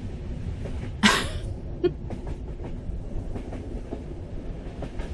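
Train carriage ambience: a steady low rumble of a moving train with faint clickety-clack. About a second in, a brief breathy sound cuts across it.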